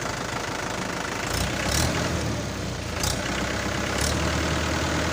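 Tractor engine running steadily at a low, even pitch, with a few brief hissing noises over it.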